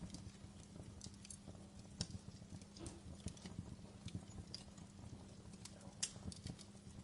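Burning logs crackling in a fireplace: irregular sharp pops and snaps over a low steady hum, with the loudest snaps about two seconds in and again about six seconds in.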